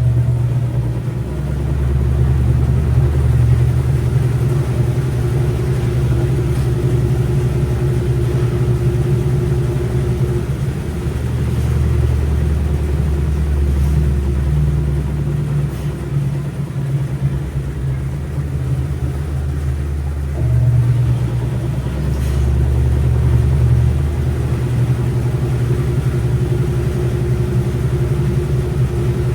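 Washing machine running: a steady low hum and rumble with a faint constant whine above it, its low notes shifting every few seconds.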